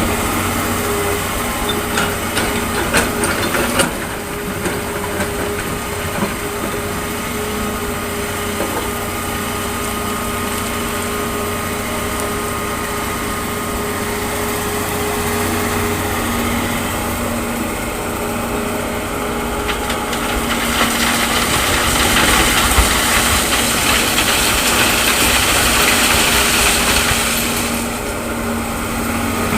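Heavy machinery's engine running steadily, with a few sharp clatters a few seconds in and a louder rushing stretch about two-thirds of the way through.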